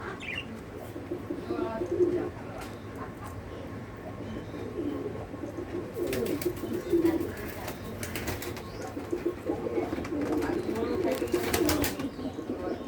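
Pigeons cooing, a run of repeated low coos, with clusters of sharp clicks about six seconds in and again near the end.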